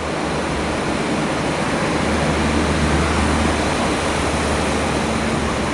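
Diesel locomotive hauling a passenger train into a station platform: a steady low engine drone over the rumble of the moving train, swelling slightly about two seconds in.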